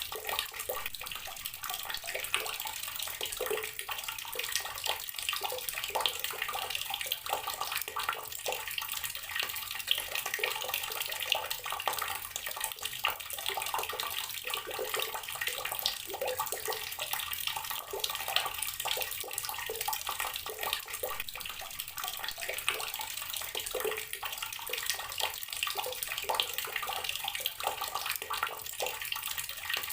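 Water from a tap pouring steadily into a filled container, a constant splashing and bubbling with no break.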